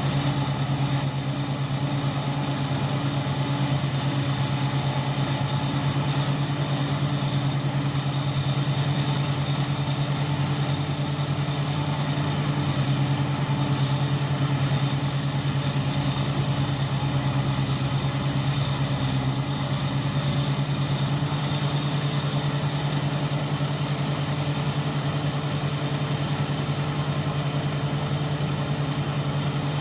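Iseki 325 rice harvester running steadily while at work, a constant low engine drone with a dense even mechanical rush above it.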